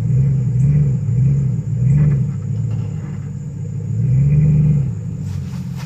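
4x4 truck engine straining under load as it pulls a tree out by the roots, its pitch surging up and down several times as the throttle is worked over a steady low rumble.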